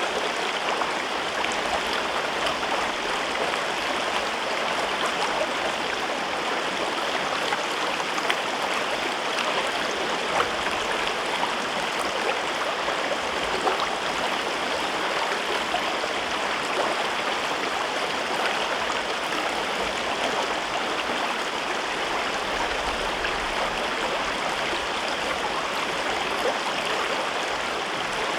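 River water running steadily over rocks through a gorge: an even rushing with small splashes and gurgles throughout.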